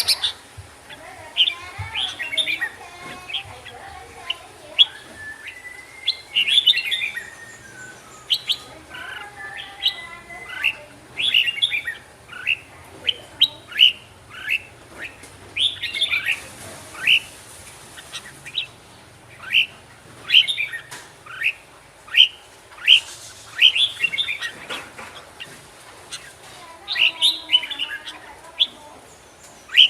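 Red-whiskered bulbul singing: a long series of short, sharp chirps, roughly one or two a second, with fainter gliding notes beneath from other birdsong.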